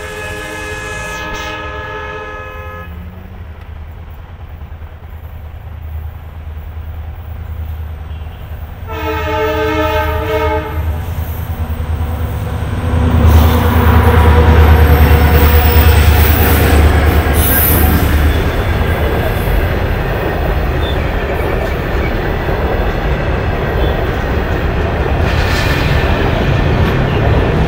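Indian Railways diesel freight locomotive sounding its multi-tone horn in two blasts, the second about nine seconds in. Its engine rumble then swells as it passes close by, and gives way to the steady rolling noise of BOXNHL open box wagons.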